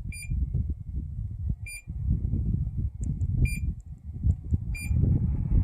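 Four short, high electronic beeps, spaced about one to two seconds apart, over a low rumbling noise.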